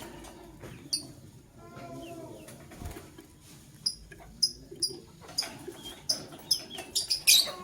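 Lovebirds chirping: short, sharp, high chirps, a few at first and then coming quickly one after another in the second half, with softer lower chatter between them.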